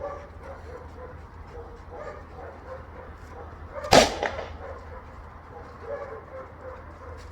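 A single short, loud bark from a Belgian Malinois detection dog about four seconds in, over a steady low hum.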